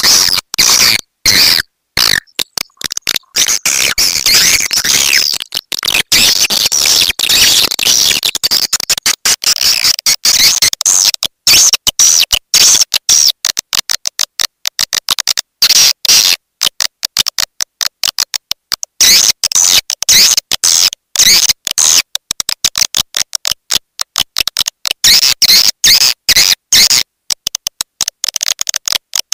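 Swiftlet call recording of the 'walet petir' type: rapid runs of high twittering chirps and clicks, broken by frequent short gaps. It is a lure call, played to attract swiftlets to a nesting house.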